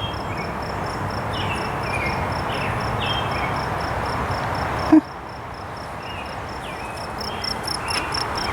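An insect trilling in a steady run of high pulses, about four a second, over a steady rush of background noise, with short falling notes of a bird every second or so. About halfway a sharp knock, after which the background rush drops.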